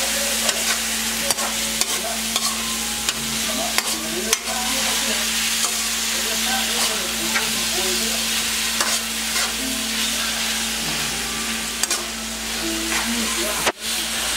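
Sliced banana heart sautéing in a metal wok: a steady sizzle of frying, with the metal ladle clinking and scraping against the pan as it is stirred. A steady low hum runs underneath.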